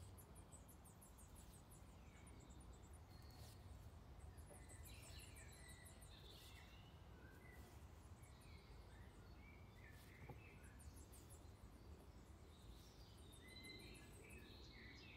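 Near silence: faint room tone, with faint bird chirps in the background.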